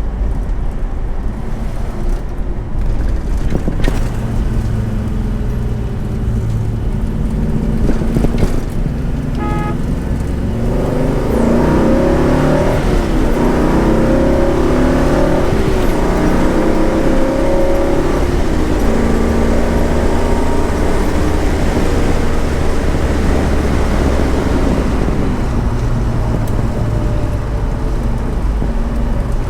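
A 454 big-block Chevrolet V8 in a 1971 Chevelle pulling hard up through the gears of a six-speed manual, its pitch rising and dropping at each shift for several seconds, then settling to a steady highway cruise with road noise.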